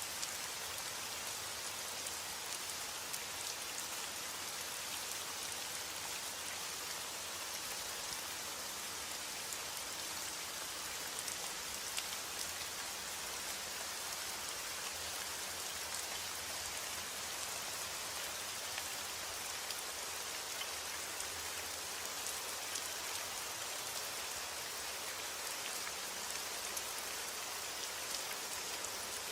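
Steady rain: a dense, even hiss of falling drops, with scattered sharper ticks of individual drops.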